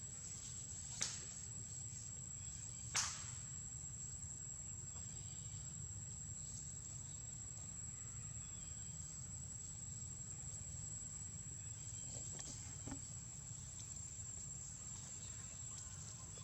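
A steady, high-pitched insect drone, with a low rumble underneath. Two sharp snaps stand out about one and three seconds in, and a fainter one comes near the end.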